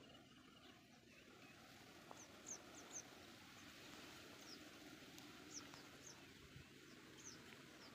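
Near silence with faint outdoor background hiss, broken by a few brief, high, downward-sweeping bird chirps: a small cluster a couple of seconds in, then single chirps around the middle and near the end.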